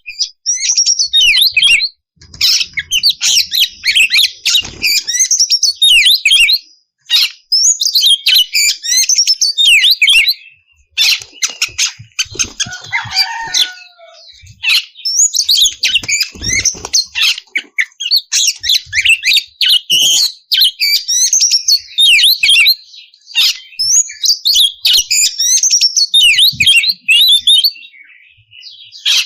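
Oriental magpie-robin (kacer) singing loud, rapid, varied whistled phrases in long runs broken by brief pauses: the full, open 'ngeplong' song used as a lure to set other magpie-robins singing.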